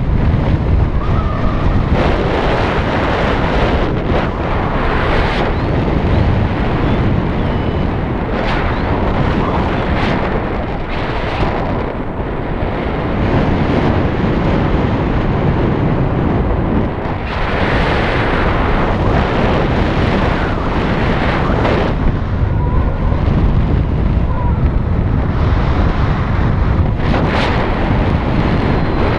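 Wind rushing over the microphone in flight under a paraglider: loud, steady wind noise heaviest in the low end, swelling and easing, with a stronger, hissier stretch from about 17 to 22 seconds in.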